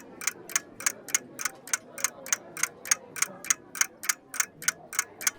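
Steady, rapid ticking, about three and a half ticks a second, like a clock.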